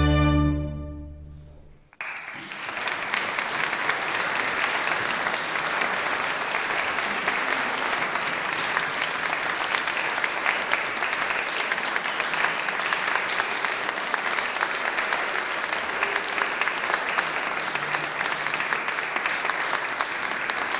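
A chamber orchestra's last held chord at the end of a Baroque flute concerto fades away. About two seconds in, an audience breaks into steady applause.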